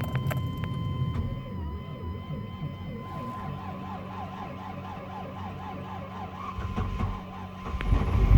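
1995 Chevrolet Suburban being cranked over in −5 °F cold without catching, the starter turning the engine slowly with a rhythmic rise and fall, about three or four a second. A steady high tone sounds alongside.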